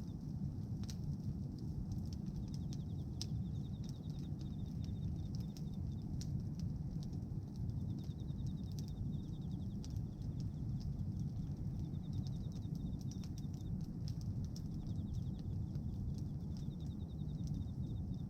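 Bonfire of pruned tree branches burning: a steady low rumble with scattered sharp pops and crackles. A high, rapid trill comes and goes in the background.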